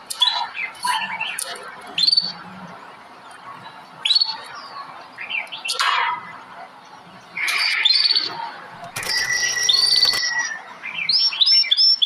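Songbirds chirping and calling: scattered short, sharp chirps and whistled notes, a harsh buzz lasting about a second around nine seconds in, then a quick run of repeated downslurred notes near the end.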